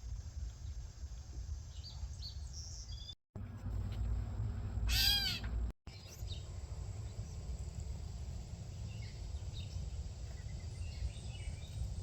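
Wild birds calling outdoors over a steady low wind rumble: scattered short high chirps, and one loud, harsh, repeated call about five seconds in. The sound drops out briefly twice, a little over three seconds in and just before six seconds.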